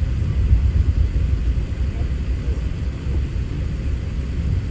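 Airbus A380 airliner heard from inside the cabin: a steady low rumble of engine and air noise.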